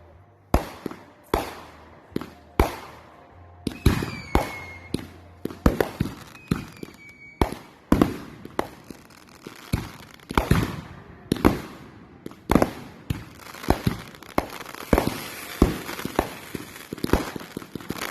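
Fireworks going off in quick succession, sharp bangs about one to two a second that thicken into dense crackling near the end, with two brief whistles about four and seven seconds in.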